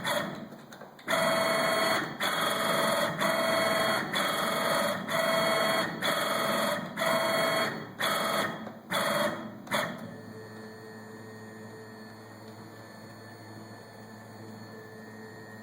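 Servo motor turning the X-axis ball screw of a Grizzly G4002 lathe under CNC control, whining through short moves about once a second and then a few shorter ones, running quiet and smooth. After about ten seconds the moves stop and only a steady electrical hum remains.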